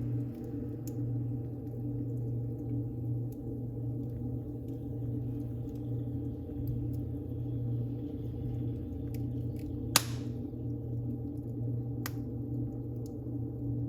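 Wood fire burning in a fireplace: a steady low rumble with scattered small crackles, one sharp loud pop about two-thirds of the way through and a smaller pop shortly after.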